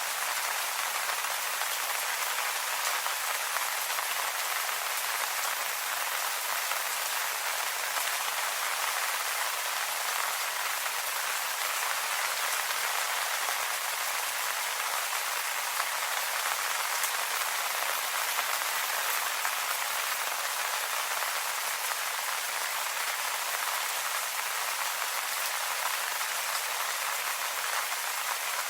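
Steady rain falling on leaves, an even hiss with scattered drop patter.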